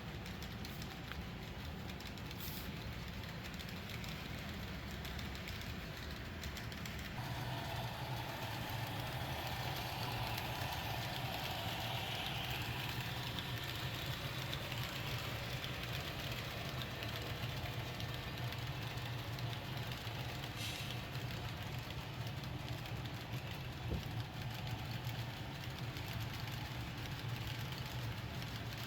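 Model GE ES44 diesel locomotive's sound decoder playing prime-mover engine sound through its small onboard speaker, a steady drone that steps up louder about seven seconds in, like a throttle notch-up under load.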